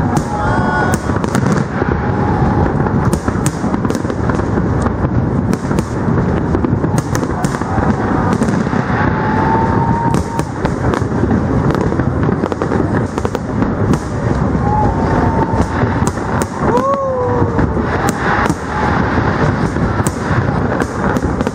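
Aerial fireworks display: a continuous run of bangs and crackling shell bursts, close together throughout. A crowd's voices run under it, with a few drawn-out cheers, one rising and falling about three quarters of the way through.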